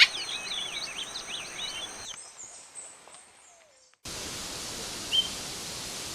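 A bird chattering in a rapid string of varied chirps over a steady high insect drone, fading out about two seconds in. After a short gap, a steady hiss starts, with one short single bird note about a second later.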